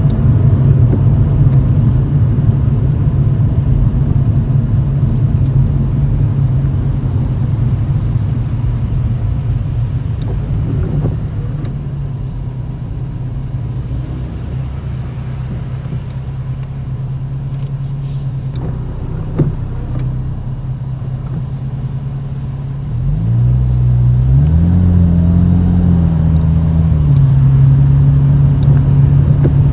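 Toyota Chaser GX100's 2.0-litre straight-six exhaust through an aftermarket Reinhard cannonball muffler with a mid-pipe silencer, heard from inside the cabin as a steady low drone at low speed. Partway through it eases off and quietens. About 23 seconds in it grows louder under throttle, its pitch rising and then dropping back to a steady drone.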